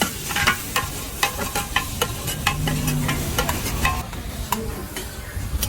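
Pad Thai frying in a hot pan with a steady sizzle, while a metal spatula stirs and clanks against the pan a few times a second.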